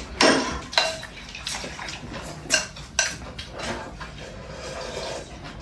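Chopsticks and spoons clinking and knocking against bowls during a noodle meal, several irregular clicks, with brief slurps of noodles and soup in between.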